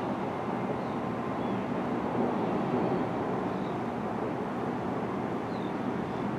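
Distant rolling thunder as a low, steady rumble that neither builds nor breaks, with a few faint high chirps now and then.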